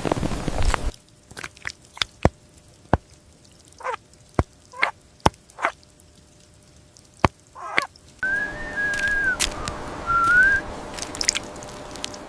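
A series of sharp clicks and short chirps, then a high whistled call that holds, dips and rises again.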